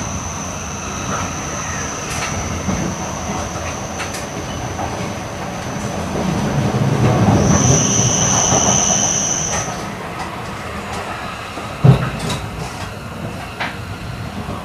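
E8 series Shinkansen running on the mountain line, heard from inside the car: a steady rumble with a thin, high-pitched squeal from the running gear. The rumble and squeal swell louder for a couple of seconds around the middle, a few short clicks pass, and a single sharp thump a couple of seconds before the end is the loudest sound.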